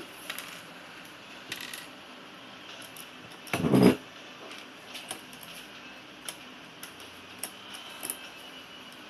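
Small plastic Lego pieces clicking and rattling as they are handled and fitted together, with one louder clatter lasting about half a second, about three and a half seconds in.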